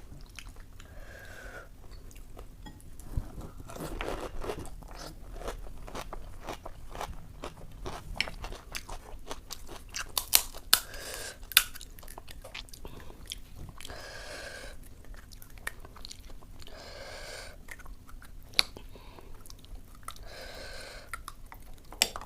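Close-miked eating of pani puri (puchka): crisp fried shells cracking and crunching between the teeth, with wet chewing and slurping of the spiced filling and water. A few sharper cracks come about halfway through.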